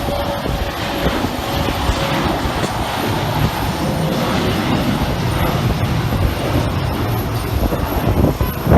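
Airliner taking off, its engines running at takeoff power as a loud, steady rumbling noise.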